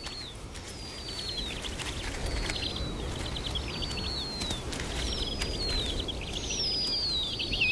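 A bird repeating high, descending whistled calls, each run into a quick buzzy trill, about once a second, over low wind noise.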